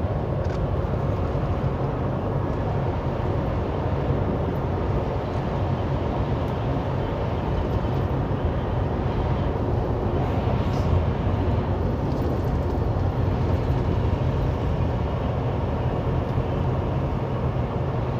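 Semi truck cab at highway speed: a steady low engine drone under constant road noise.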